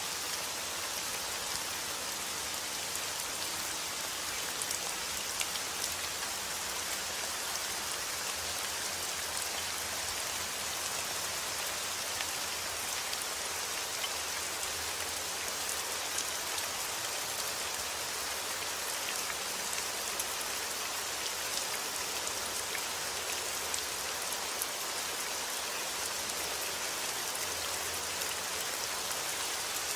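Heavy rain falling steadily outdoors: an even hiss of rain with scattered sharper drop ticks.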